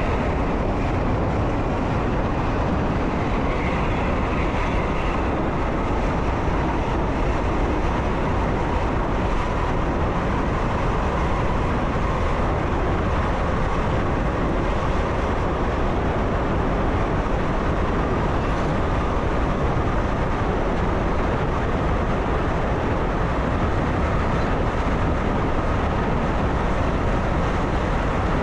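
A Croatian Railways train running steadily along the track, heard from inside the driver's cab as an even rumble with a faint steady tone above it.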